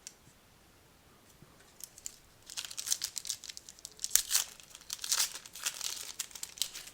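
A trading-card pack's foil wrapper being torn open and crinkled by hand, after a couple of quiet seconds, with rapid sharp crackles.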